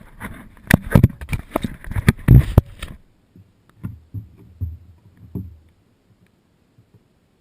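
A quick series of sharp knocks and bumps for about three seconds, followed by a few softer, duller thumps, then nothing.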